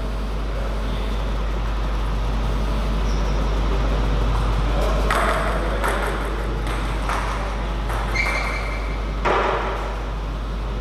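Table tennis ball hits on bats and the table during a rally: a handful of sharp clicks at uneven spacing about halfway through, over a steady low hum.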